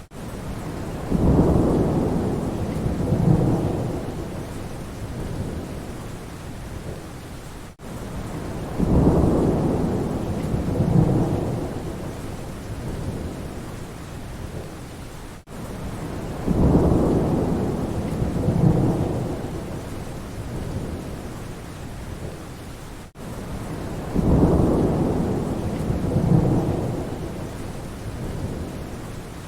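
Steady rain with rolling thunder: a low rumble swells about a second into each cycle and peaks twice before fading. The same few seconds of audio repeat about every eight seconds, with a brief gap at each join.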